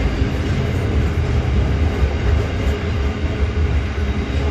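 Freight train passing at close range: a steady low rumble of wagons rolling over the rails.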